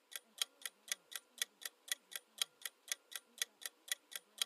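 Countdown timer sound effect: clock ticking, about four ticks a second.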